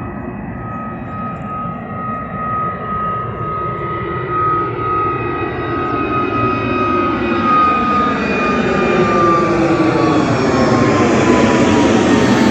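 Airbus A320neo jet engines at departure thrust, getting steadily louder as the airliner comes closer. A high steady fan whine runs through the noise and drops in pitch in the last few seconds as the aircraft passes.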